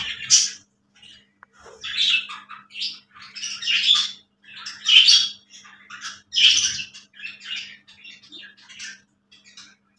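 Female budgerigar chattering in a run of short, high squawks and chirps with brief pauses between them.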